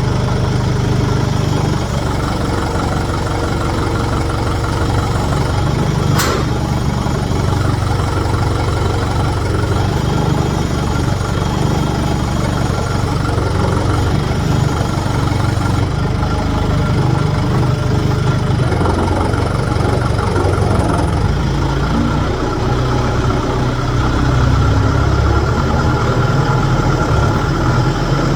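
An engine idling steadily, with a single sharp click about six seconds in.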